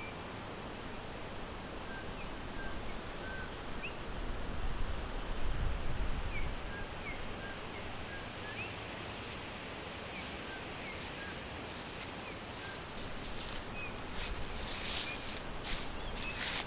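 Forest ambience: small birds giving short, scattered high chirps over a steady background hiss. A low rumble of wind comes through about four to seven seconds in, and some scratchy rustling comes near the end.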